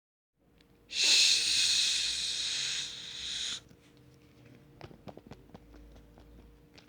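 A loud hiss lasting about two and a half seconds, which cuts off sharply, followed by a few faint clicks and taps.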